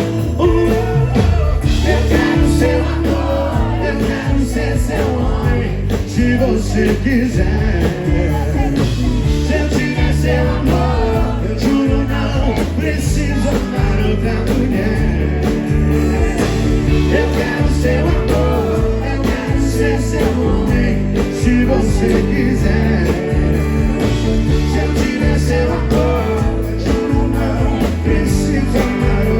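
Live sertanejo band music with singing: guitars, bass and drums keep a steady, heavy beat under the vocals.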